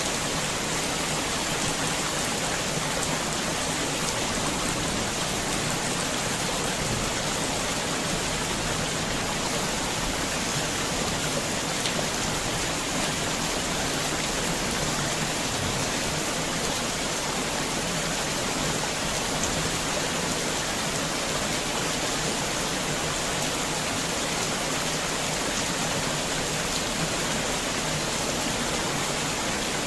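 Heavy rain falling steadily, an even hiss of rain with faint individual drops ticking on surfaces.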